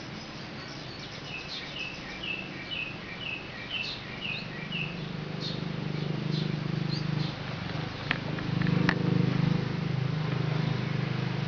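A bird chirping over and over, about two short chirps a second, for the first few seconds. From about halfway a low drone builds up and becomes the loudest sound near the end, with a couple of sharp ticks in it.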